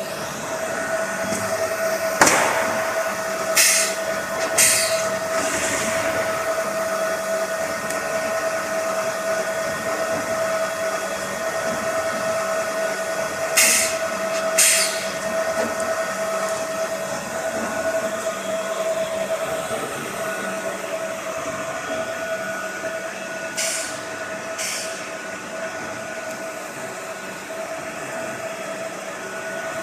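Polystyrene foam hot melting compactor running with a steady mechanical whine. A sharp knock comes about two seconds in, and pairs of short hissing bursts come roughly every ten seconds.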